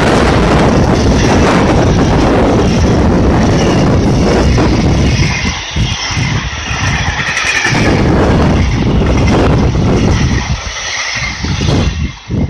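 A passing freight train's container flatcars rolling past close by: a loud, steady rush and rumble of wheels on the rails, with brief lulls about halfway and again near the end as the last wagons go by.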